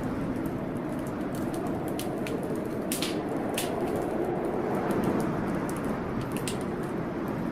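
Wood fire in a fireplace crackling, with irregular sharp pops, over a steady rushing noise of a storm.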